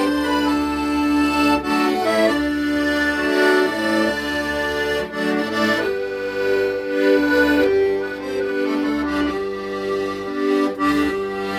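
Accordion playing a slow melody in sustained reedy notes over a pulsing bass-button accompaniment.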